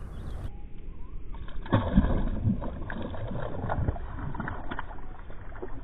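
Water sloshing and splashing with scattered knocks as a small largemouth bass is released back into the lake by hand.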